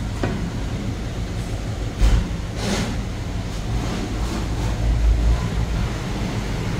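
Heavy truck's engine running with a steady low rumble, with a thump about two seconds in and a short hiss just after.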